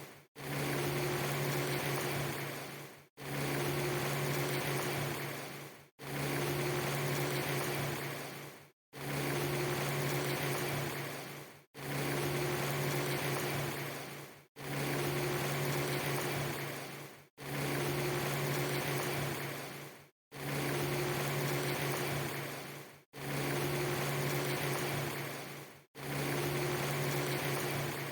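A steady hiss with a low hum, repeated as a short loop: about every three seconds it fades out, goes silent for a moment and starts again.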